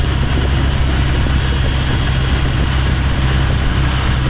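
Motorboat engine running steadily with an even low drone.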